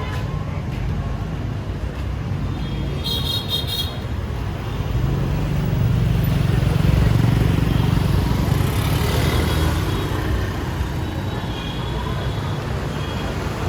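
Street traffic of motorbikes and cars running past, swelling louder for a few seconds midway, with a short horn toot about three seconds in.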